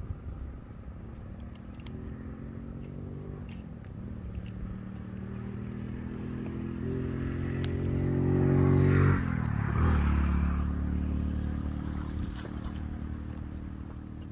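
A motor engine passing close by. It grows louder for about nine seconds, then its pitch drops sharply as it goes past and it fades away.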